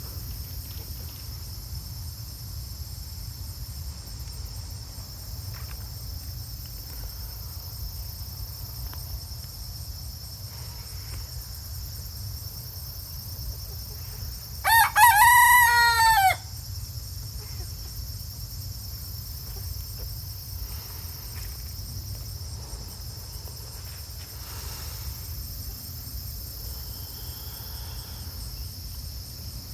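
Rooster crowing once, a single cock-a-doodle-doo of about a second and a half, about halfway through.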